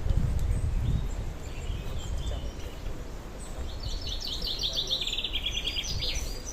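Songbird singing: scattered chirps, then about four seconds in a rapid trill of quickly repeated notes that falls in pitch. A low rumble lies underneath and is loudest in the first second.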